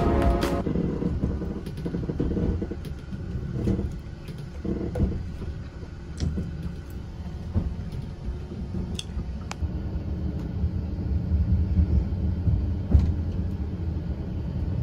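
Steady low rumble of a moving Talgo passenger train, heard from inside the carriage, with a few faint clicks.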